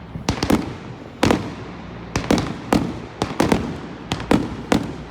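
Fireworks going off in quick succession: about a dozen sharp bangs, two or three a second, each trailing off in a short rumbling echo.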